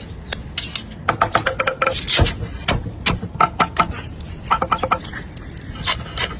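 Outdoor food preparation: a quick, uneven run of sharp knocks and clinks, some ringing briefly like metal or crockery being handled.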